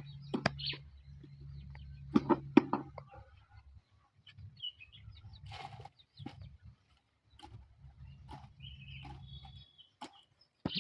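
Outdoor ambience: a few sharp knocks and brief bird chirps over a low hum that comes and goes and stops about nine and a half seconds in.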